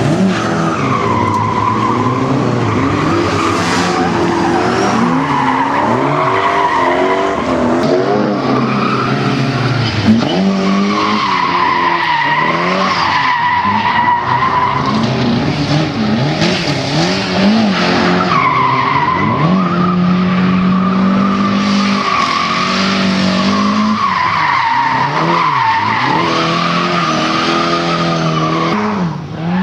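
Car engine revving up and down as the car is driven hard, with several long stretches of tyre squeal lasting a few seconds each as it slides through corners.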